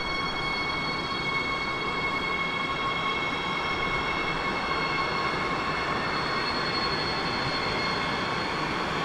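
Electric train running through the station: continuous rolling noise from the wheels on the rails, with a steady high-pitched whine above it that sinks very slightly in pitch.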